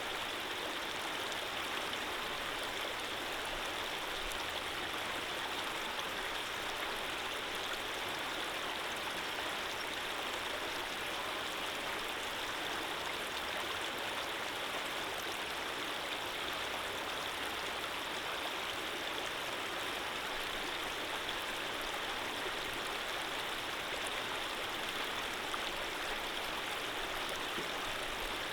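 Running water in a small stream, a steady, even rushing flow with no changes.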